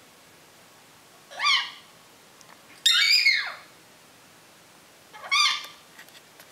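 African grey parrot giving three loud whistled calls, each sweeping upward in pitch; the middle one is the longest and loudest and rises, then falls away.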